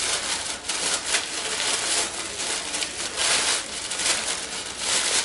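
Paper crinkling and rustling in uneven spells as a present is unwrapped and searched by hand.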